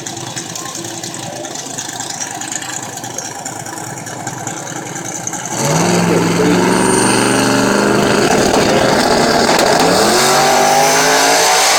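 Turbocharged drag-race engine of an Outlaw 10.5 car, a twin-turbo 1967 Camaro, rumbling on the start line, then launching at full throttle about halfway through. It becomes suddenly loud and its note climbs steeply, climbing again near the end as it pulls down the track.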